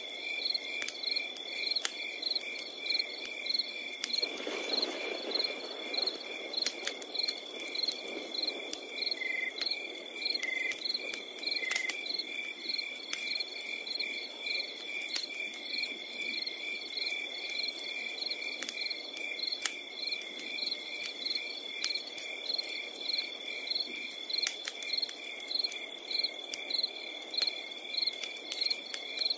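Crickets chirping in a steady rhythm, about two chirps a second over a continuous high trill, with a campfire crackling and popping now and then. A low hiss swells briefly about four to six seconds in.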